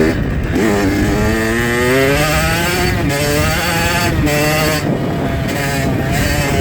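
Dirt bike engine accelerating, its pitch climbing over the first couple of seconds, then running at a fairly steady speed with small rises and dips in revs, heard from the rider's helmet with wind rumbling on the microphone.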